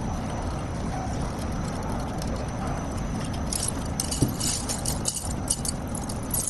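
Steady low rumble of a solar-panel recycling line's machinery. About halfway through, an irregular run of high clinks and rattles comes in, like glass or metal pieces knocking together.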